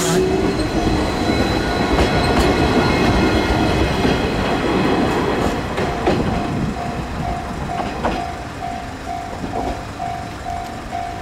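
JR 105-series electric train pulling away from a station, its wheels and motors running past close by with some clickety-clack, the noise fading as it draws off. From about six seconds in, a level-crossing warning bell rings steadily, about two dings a second, over the receding train.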